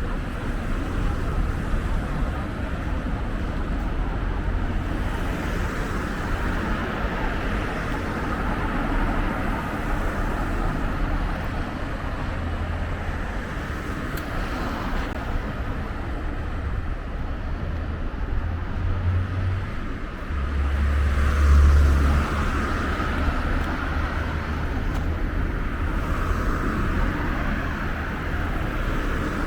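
Street ambience of road traffic: cars passing steadily, with one passing louder about two-thirds of the way through.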